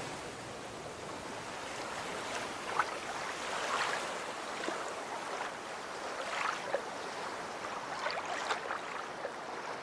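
Water splashing and lapping, with irregular small splashes every second or so.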